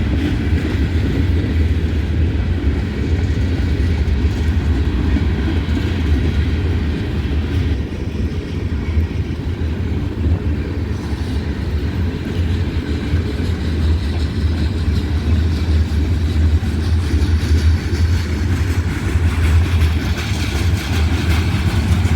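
A freight train's hopper cars rolling past on the track, a steady low rumble of steel wheels on rail.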